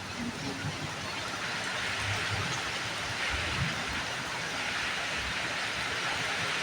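Steady rain falling, with soft low thuds of drops, growing a little heavier from about a second and a half in.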